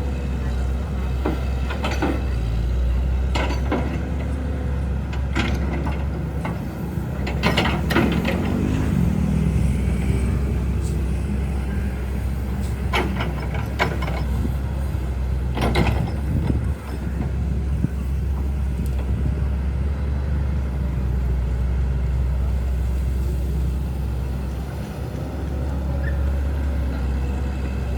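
A large engine running steadily with a low hum, with sharp clanks and knocks every few seconds, the loudest about eight seconds in and again near sixteen seconds.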